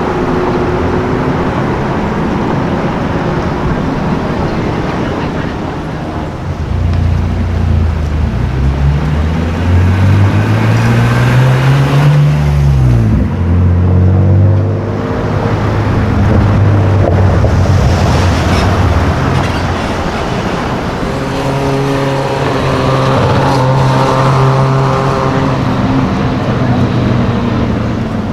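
Supercar engine on the street, pulling up in pitch from about seven seconds in, then dropping sharply in pitch around thirteen seconds. Engines then run steadily at an even pitch for the rest of the time, over constant traffic noise.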